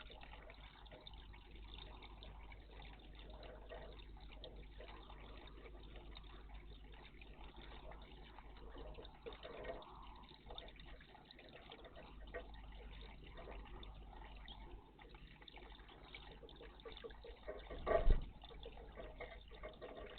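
Water trickling and splashing softly in a garden bird bath, with many small drips and splashes. One sharp knock about 18 seconds in, near the end.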